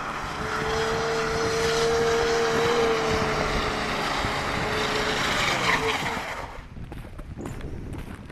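A motor vehicle passing close by, running loud for about six seconds with a steady hum, then dropping slightly in pitch and fading away.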